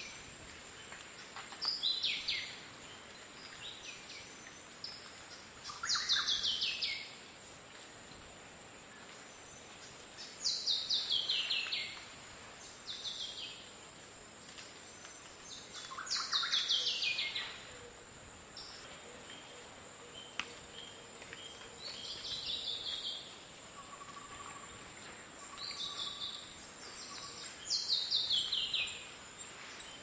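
Wild bird calls: a phrase of quickly falling notes, repeated about every five seconds, with shorter single calls between. A steady high insect hum runs underneath.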